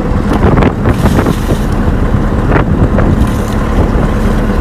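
Wind buffeting the microphone over the steady low drone of a boat's engine, with scattered short knocks.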